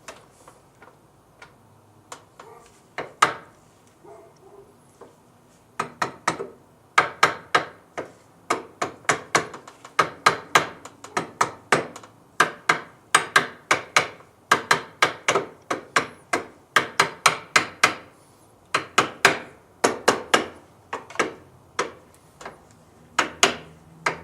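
Hammer tapping repeatedly on a part of an HEI ignition distributor during reassembly. After a few single knocks, steady runs of sharp strikes start about six seconds in, two to three a second, with a short pause near the end.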